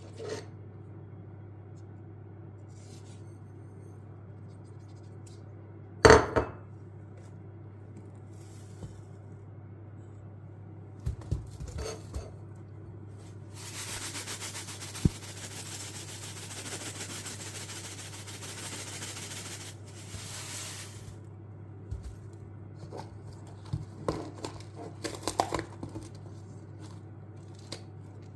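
Kitchen food-preparation sounds: a loud knock of dishes or utensils about six seconds in, scattered clicks and scraping, a steady hiss for about seven seconds in the middle, and a run of clatter near the end, over a low steady hum.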